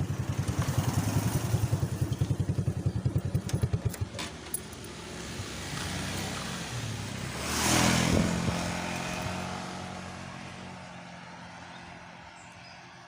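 Motorcycle engine running with a fast, even thudding for the first few seconds, then a louder rushing swell about eight seconds in that fades away, as of the bike moving off.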